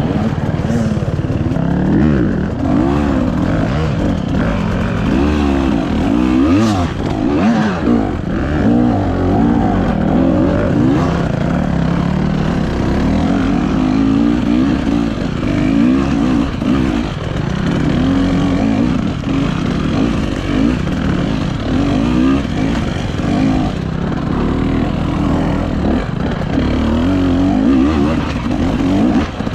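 Dirt bike engine revving up and falling back again and again as it is ridden off-road, its pitch rising and dropping every second or two.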